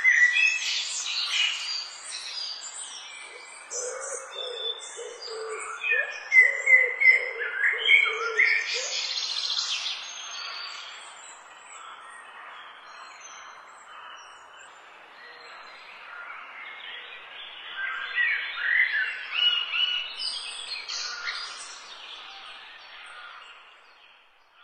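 A chorus of songbirds chirping and singing, with many short calls and whistles overlapping. A lower call repeats for a few seconds, and the chorus fades out near the end.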